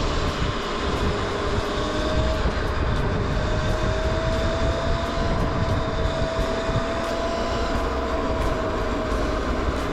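Electric dirt bike under way: a steady electric motor whine that rises gently in pitch and then eases, over heavy wind rumble on the microphone.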